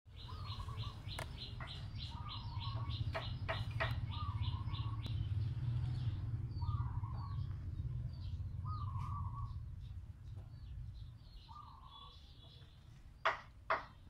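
Birds calling: a rapid run of high chirps at first, then a short call repeated about every second and a half, over a steady low hum. Two sharp clicks near the end.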